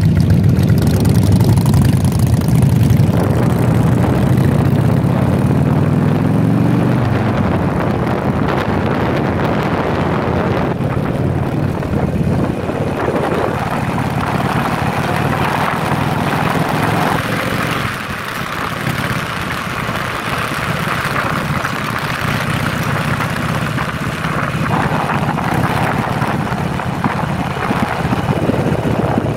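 Harley-Davidson Sportster V-twin motorcycle engine under way, the revs climbing steadily for the first several seconds as the bike accelerates, then holding at a cruise. Wind rushes steadily over the microphone.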